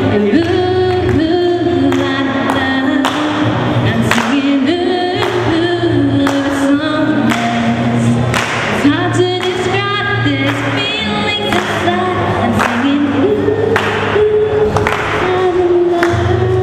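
A live band playing a song, with sung vocals over steady bass notes and regular percussive hits.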